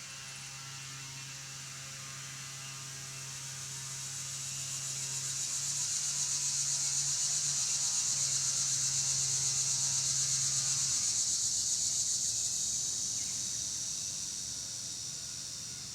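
An insect's high, finely pulsing buzz swells up over a few seconds, holds, then fades away. Beneath it a low steady hum runs and stops about two-thirds of the way through.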